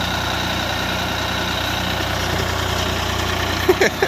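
Swaraj 855 FE tractor's diesel engine running steadily. A few short rising sounds come in near the end.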